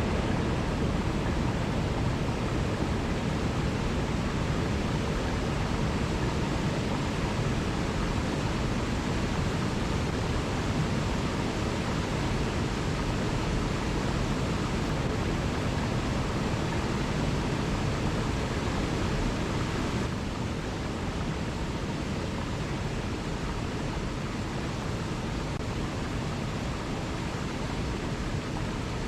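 Waterfall: a steady rush of falling water, heaviest in the low end, easing slightly about twenty seconds in.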